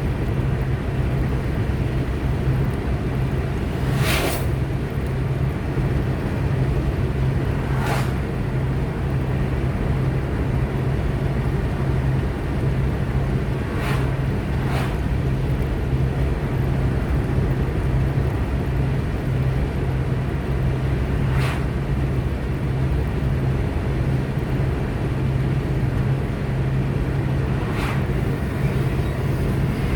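Steady engine and tyre drone of a car driving along a road, a low even hum. A few short whooshes break through, about six times.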